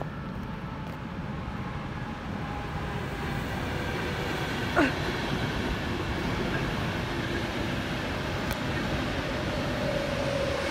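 Passenger train running past on an elevated electrified line: a steady rumble of wheels on rail that slowly grows louder. About halfway through, a brief sharp sound glides quickly down in pitch, and near the end a steady hum sets in as the next train approaches.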